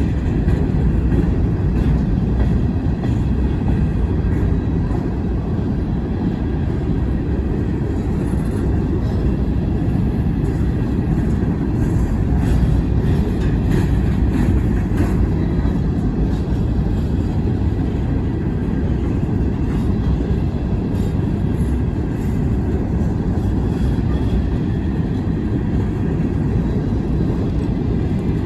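Wheeling and Lake Erie freight train rolling past: a steady, heavy low rumble of cars on the rails, with faint clicks in the middle.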